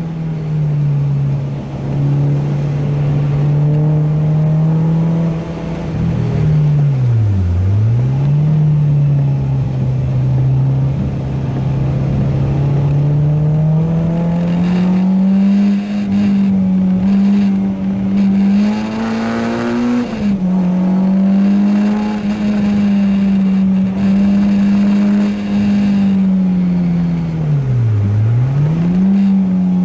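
Renault Clio 2 RS's four-cylinder engine pulling hard around a circuit at high revs. The revs fall sharply and climb back twice, about seven seconds in and near the end, as it slows for tight corners and accelerates out. About twenty seconds in they rise and then drop suddenly at a gearchange.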